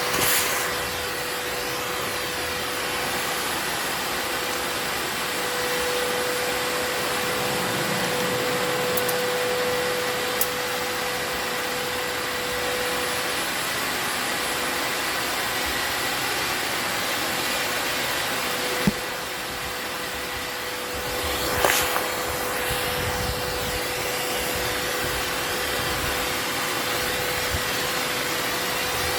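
Vacuum cleaner running steadily with a constant motor tone, being used to suck up hornets at their nest. There are a few brief knocks and a short dip in the suction noise about two-thirds of the way through.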